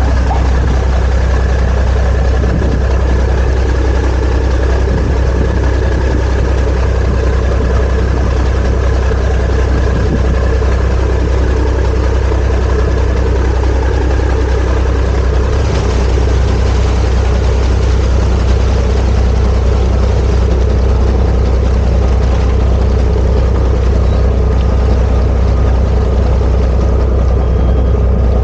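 Sightseeing boat's engine running steadily underway, a continuous low drone with a hiss over it.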